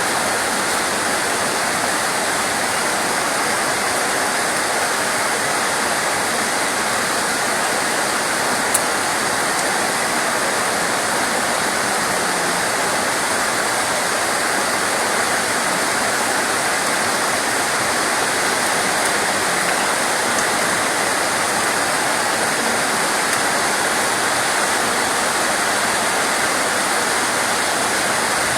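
Steady rain making an even, unbroken hiss, with one faint tick about nine seconds in.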